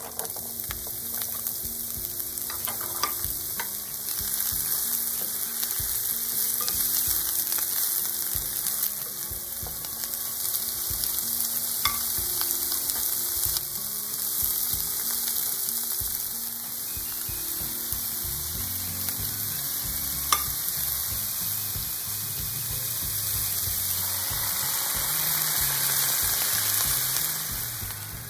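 Diced onion and chopped pumpkin-leaf stems sizzling steadily as they fry in a hot pan, with a few light clicks along the way.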